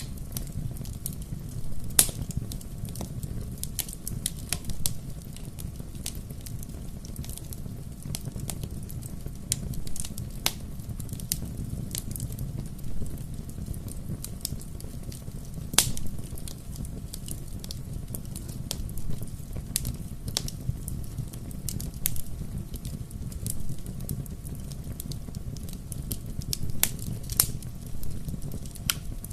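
Bonfire burning with a low steady rumble and frequent sharp crackling pops, the loudest about two seconds in and again near the middle.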